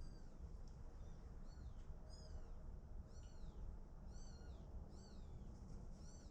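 Chicks peeping: a series of short, high, falling peeps, roughly one a second, over a low steady rumble.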